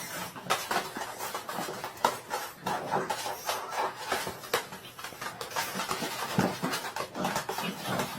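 A dog panting, in a steady run of short, quick breaths.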